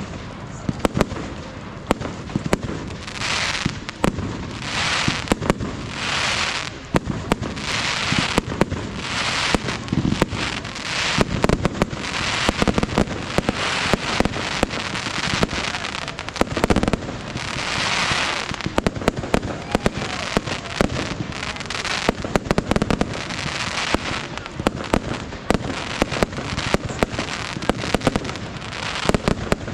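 Firework display going off: a dense, continuous run of sharp bangs and pops, with a hissing, crackling rush that swells for about a second at a time, several times in the first ten seconds and again about halfway through.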